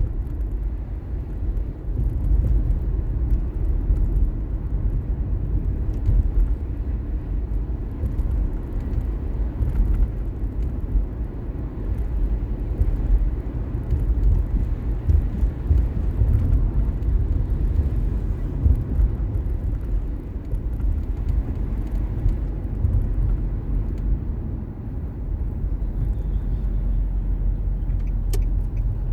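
A car driving along a road, heard from the car: a steady low rumble of road and engine noise. A faint, evenly spaced ticking starts near the end.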